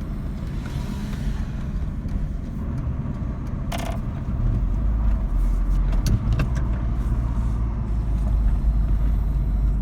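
Saab 900 Commemorative Edition's turbocharged four-cylinder engine and road noise while driving at low speed, as heard from inside the car, with the engine still cold. A steady rumble grows louder and deeper about four seconds in, and a brief click or squeak comes just before.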